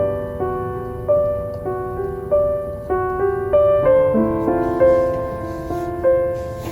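Gentle, slow solo piano music: soft notes struck about every half second to second, each fading away, over a faint low hiss, with a few faint crackles near the end.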